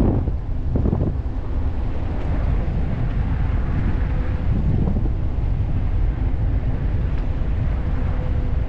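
Wind buffeting the microphone of a moving e-bike, a steady low rumble, with a faint steady hum underneath and a couple of brief gusts near the start.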